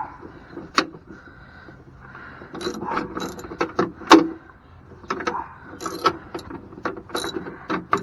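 Socket ratchet wrench clicking in short runs, with metal clanks and one louder knock, as a step-rail mounting bolt is threaded in and snugged up.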